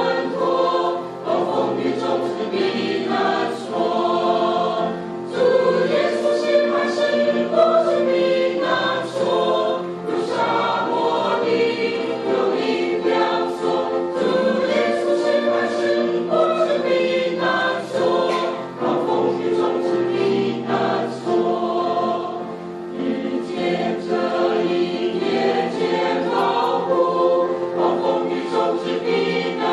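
Choir singing a slow hymn.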